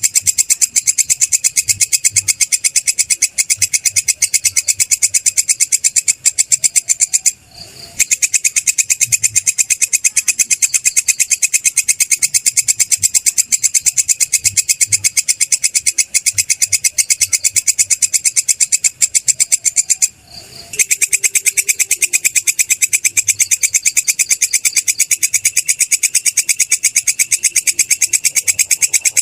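Belalang kecek katydid stridulating: a continuous high-pitched train of rapid, even clicks, breaking off briefly twice.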